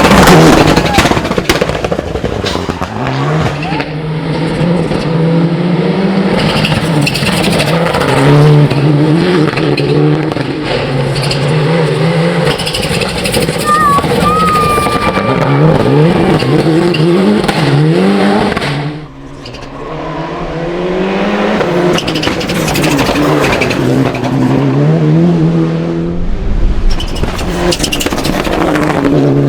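Mitsubishi Lancer Evo VI hill climb prototype racing flat out. The engine revs up and drops back again and again through gear changes, lifts off briefly about two-thirds of the way through, then pulls hard again.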